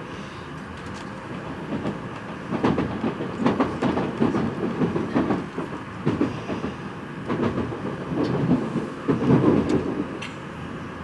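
Train running on rails, its wheels clattering over rail joints in loud uneven surges over a steady rumble.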